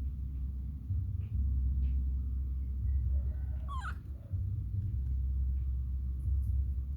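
Steady low rumble, with one short, high-pitched squeak from a baby monkey a little past halfway through.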